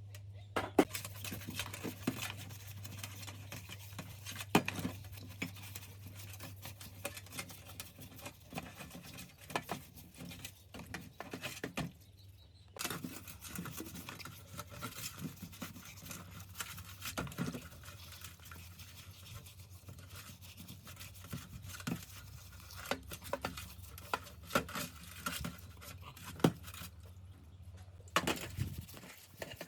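Irregular small clicks, taps and scraping of hand work on tool parts, over a steady low hum that stops near the end.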